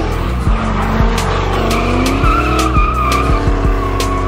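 LS V8 of a swapped Nissan 240SX drift car revving up and down as the rear tyres spin and skid through a donut. A steady tyre squeal comes in about two seconds in.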